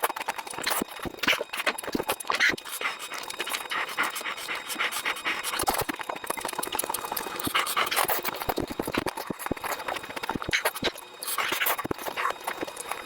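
Close-up eating sounds: wet chewing, lip-smacking and sucking at goat-head meat, a rapid run of irregular clicks and smacks.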